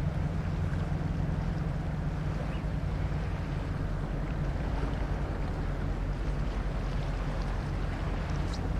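Steady low engine hum of a river sand boat, with wind rushing on the microphone.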